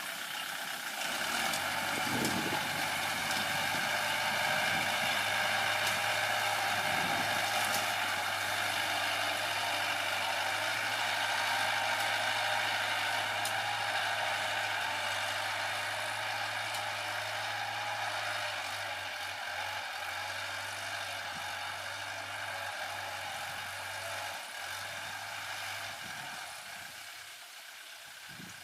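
Kubota L4708 diesel tractor engine running steadily, growing louder in the first few seconds and then slowly fading away.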